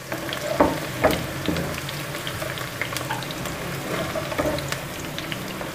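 Cut okra frying in hot oil, sizzling with many fine crackles, while a perforated steel skimmer stirs and lifts the half-done okra out of the pan. The skimmer knocks against the pan a few times in the first second and a half.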